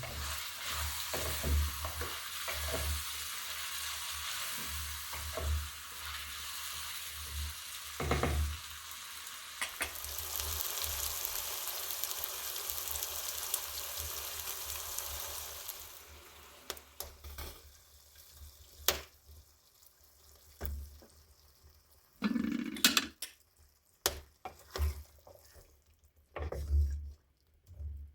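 Food sizzling and frying in oil in a cooking pot over a wood fire, with low knocks from stirring. The sizzle dies down about sixteen seconds in, leaving scattered clicks and knocks with a louder thud a few seconds later.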